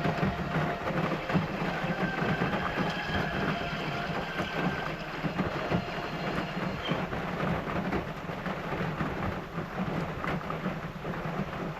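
Heavy rain falling steadily on a pickup truck's roof, heard from inside the cab, with a steady low rumble underneath.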